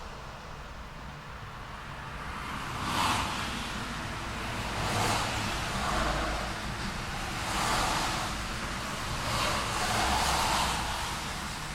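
Road traffic: a steady hiss of tyres and engines, with cars passing one after another, each swelling and fading in a second or two, about six in all.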